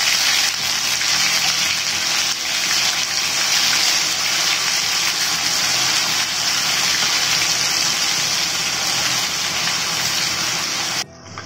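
Ginger-garlic paste frying in a shallow pan of hot oil: a steady, loud sizzling hiss as the raw paste cooks off its moisture. It cuts off suddenly near the end.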